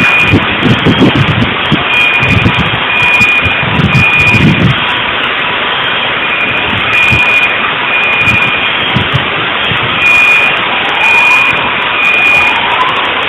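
An electronic alarm beeping in short, high-pitched pulses that start and stop over a loud, steady noise, with a few low thuds in the first few seconds.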